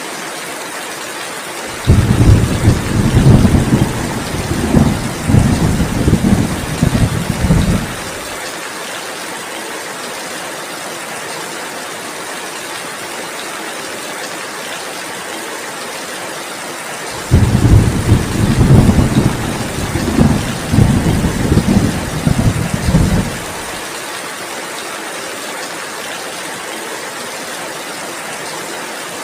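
Steady heavy rain hissing throughout, with two long rolls of thunder. The first comes about 2 seconds in and the second about 17 seconds in; each starts abruptly and rumbles for about six seconds.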